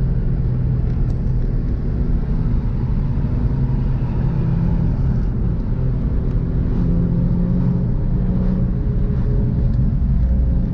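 Car engines running steadily at cruising speed, with the sound of a turbocharged engine echoing.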